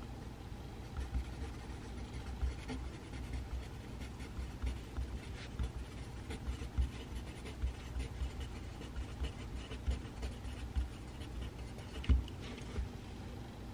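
Pencil writing on paper at a desk, a light scratching with frequent soft knocks of the pencil and hand against the desk, and a louder knock near the end.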